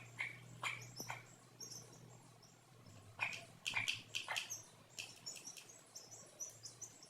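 Chicks peeping in many short, high chirps, with a few sharp taps near the start.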